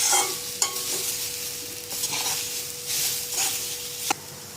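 Grated elephant foot yam being stirred in oil in a pan, the spatula scraping in repeated strokes over a light sizzle. A sharp knock comes near the end, after which the stirring stops.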